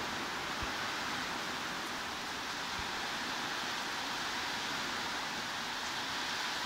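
Heavy rain falling in an even hiss, used as white noise.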